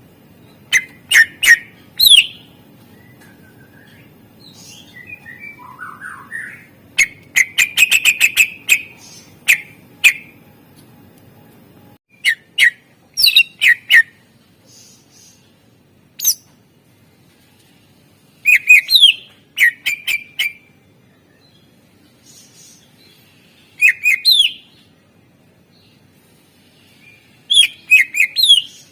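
Greater green leafbird (cucak ijo) singing in loud bursts of short, sharp whistled chirps with pauses between, including a fast rattling run of notes about a quarter of the way in. The song is full of phrases imitated from other birds.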